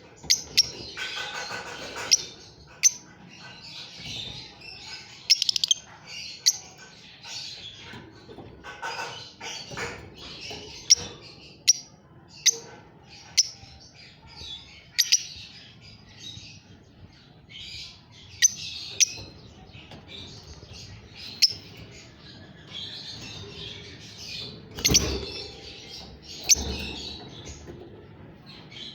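Pet lovebirds chattering with continuous high chirps. Sharp, shrill single calls stand out every second or two, with a couple of low bumps near the end.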